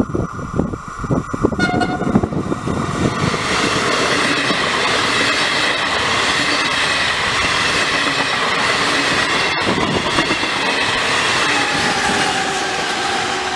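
A regional passenger train passing close by: a short horn blast near the start as it approaches, then the steady loud rush of its wheels on the rails.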